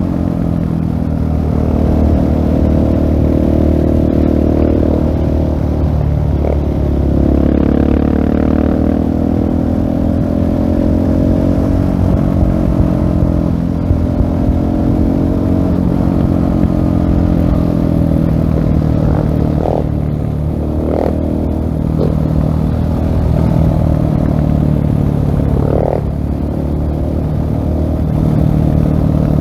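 2016 Husqvarna 701 SM's single-cylinder engine through a LeoVince full-system exhaust, under way: the exhaust note rises and falls again and again as the throttle opens and closes. Wind rush runs underneath.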